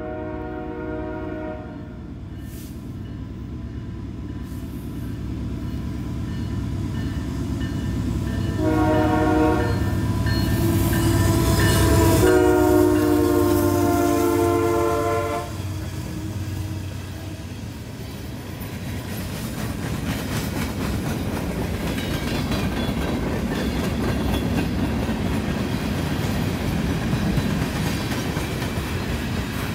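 Canadian Pacific diesel freight locomotive sounding its horn as it approaches and passes: a blast ending about a second and a half in, then more blasts from about nine seconds in, the last a long one ending around fifteen seconds, over the engine's rumble, which is loudest as the locomotive goes by. After that, the steady rumble and clickety-clack of freight cars rolling past.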